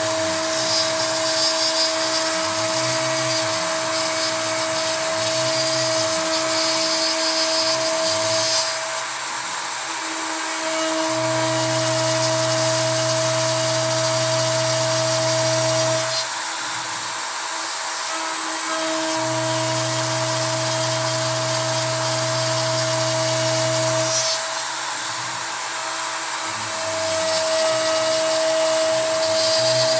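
A CNC router cutting pine with a 3 mm end mill: the Kress spindle motor whines at a constant pitch while the stepper motors hum underneath. The stepper hum changes as the machine moves, alternating between smoothly varying and steady stretches with short breaks, in a cycle that repeats about every eight seconds.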